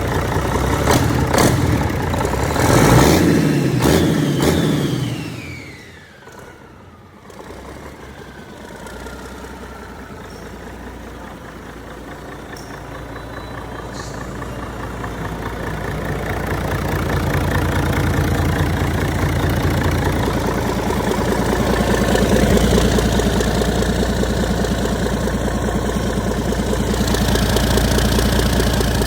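Mack E6 inline-six mechanical diesel engine running on test. It is loud and busy at first, then drops back about six seconds in with a whine falling in pitch, and settles into a steady diesel run that slowly grows louder.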